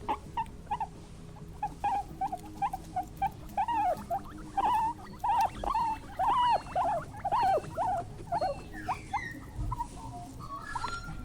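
A small animal squeaking over and over in short, arched calls, several a second, with a steady low hum underneath.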